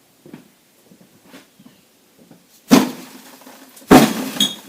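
Two sharp knocks about a second apart as the cut-off length of PTO drive shaft is handled, the second knock ringing briefly.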